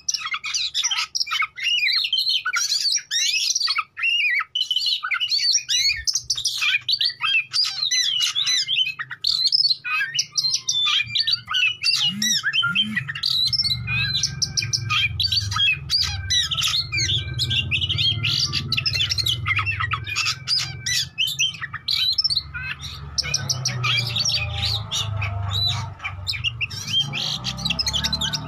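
Oriental magpie-robin (kacer) in full, continuous song: a fast, varied stream of whistles, chirps and harsh squawking notes. A low hum runs beneath from about halfway through.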